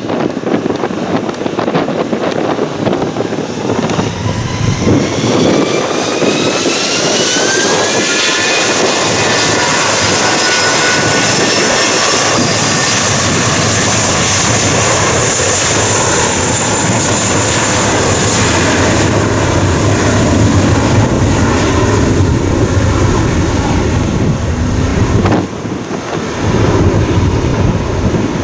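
Jet airliner engines spooling up with a rising whine that levels off into a steady high-pitched whine over loud engine noise, as for a takeoff run; the whine fades after about twenty seconds, leaving engine noise and wind on the microphone.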